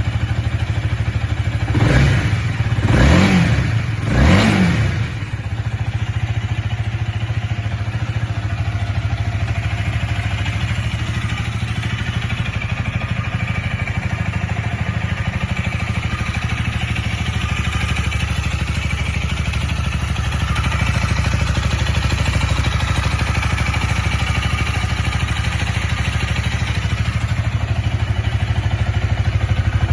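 Honda Rebel 250 motorcycle engine running: the throttle is blipped three times in quick succession about two seconds in, then the engine settles into a steady idle.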